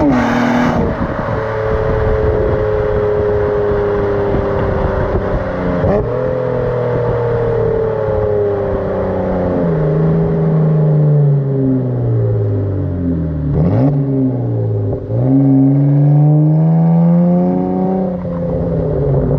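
2007 Acura TL Type-S's 3.5-litre V6 through a custom exhaust, driving under way. The revs sink slowly, with sudden drops at gear changes. About two-thirds through they dip low, then rise again as the car pulls, and ease off near the end.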